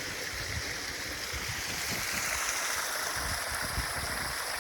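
Steady rushing water of a waterfall and stream, with irregular low rumbling underneath.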